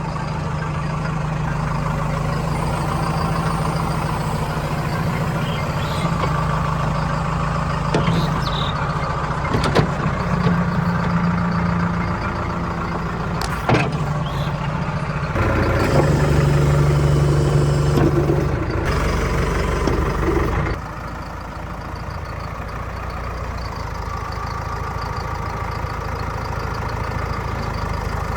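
Heavy diesel tractor engine running steadily, with a few sharp knocks. The engine sound changes abruptly twice, about 15 and 21 seconds in, and is quieter after the second change.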